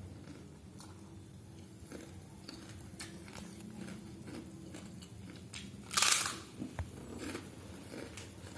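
Close-up chewing and eating sounds of a person eating Indomie Mi Goreng fried instant noodles, with soft mouth clicks throughout. One brief, louder noise stands out about six seconds in.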